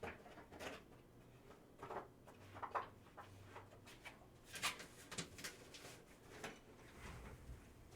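Near silence over a faint low hum, with a few soft, scattered clicks and rustles of something being handled, the loudest about a third of the way in and just past halfway.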